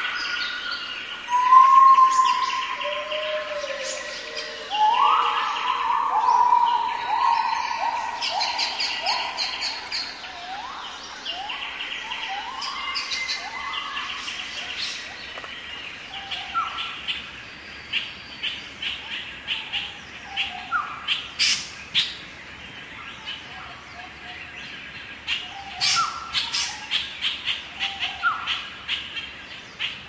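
Birds calling: a series of clear whistled notes, each sliding upward, stepping down in pitch, followed later by quick runs of short high chirps.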